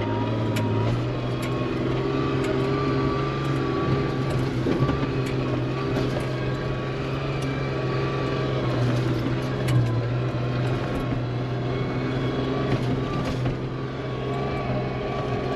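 Honda CR-V engine running at steady revs under load off-road, its note stepping up a little about a second in, with a thin steady high whine and scattered knocks and rattles over rough ground.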